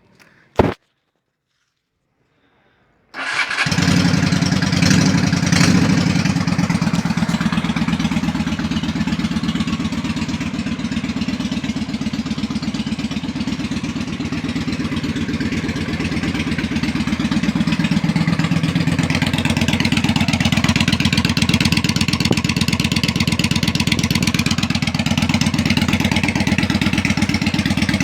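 Honda Shadow 400 ACE's V-twin engine idling through a straight-through exhaust, a loud steady pulsing beat that cuts in abruptly about three seconds in. Before it comes a brief loud thump and a short silence.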